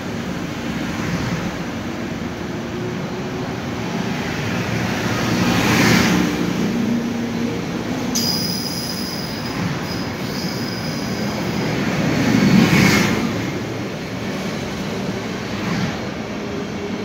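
Metro-North M3 electric multiple-unit train pulling out of the station, its cars rolling past at close range with a steady rail rumble. The sound swells louder twice, about six and about twelve seconds in, and a thin high whine joins about halfway through.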